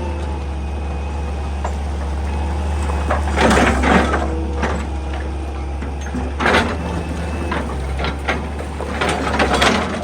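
Excavator's diesel engine running steadily, with bursts of scraping and crunching from the bucket working into rock and earth a few seconds in, again past halfway, and near the end.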